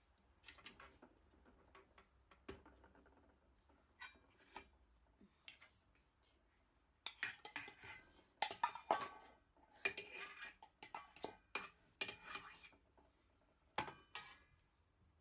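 Kitchen utensils and dishes clinking and clattering in short, irregular knocks as baking gets under way, sparse at first and busier and louder from about halfway through.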